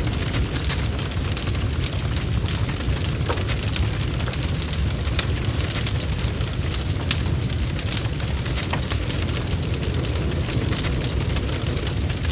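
Wood fire crackling and popping, with many sharp snaps scattered over a steady low rumble of the flames.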